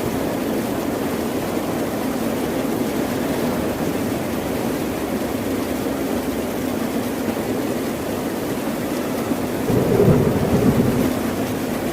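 Ocean waves washing on a shore in a steady, continuous wash, with one louder wave surging about ten seconds in.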